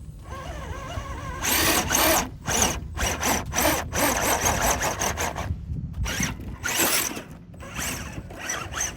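Scale RC crawler's Hobbywing brushed electric motor whining in repeated throttle bursts, starting about a second and a half in, as the tires spin and dig in loose dirt to climb free.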